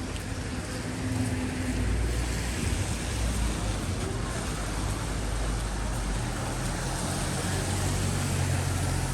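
A motor vehicle's engine running close by: a low steady hum that grows stronger about a second and a half in and holds, over an even hiss of traffic on a wet street.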